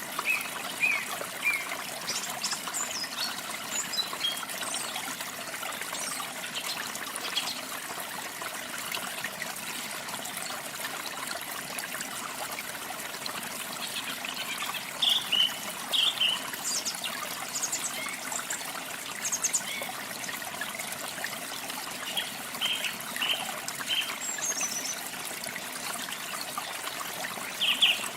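Water from a small waterfall trickling and splashing steadily, with songbirds giving short high chirps and brief phrases at intervals, clustered around the middle and near the end.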